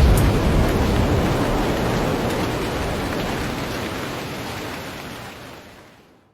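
Heavy rain falling steadily, with a low rumble at the start that dies away; the whole sound fades out to silence near the end.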